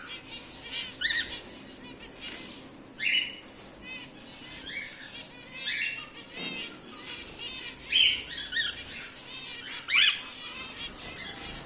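Cockatiels calling in an aviary: several loud, harsh squawks a second or two apart over a continual background of small, quick chirps from other birds.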